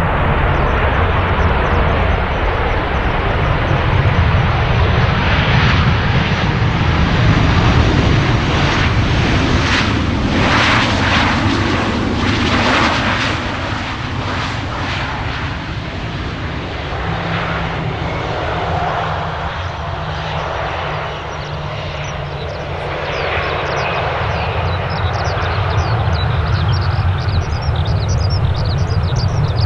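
Jet engines of a Boeing 737-800 airliner, the CFM56-7B turbofans running loud and steady. The noise swells to its loudest about ten seconds in, eases off past the middle and builds again near the end.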